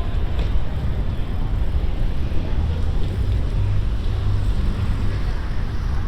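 Wind rumbling over the microphone of a chest-mounted camera on a moving bicycle, with street traffic noise behind it.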